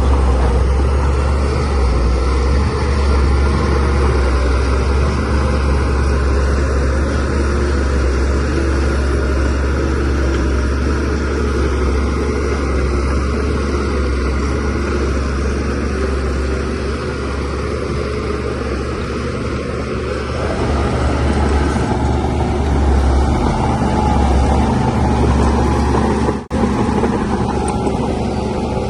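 Diesel engine of a DH17C3PRO crawler bulldozer running steadily as a loud, deep drone. The sound drops out for an instant about 26 seconds in.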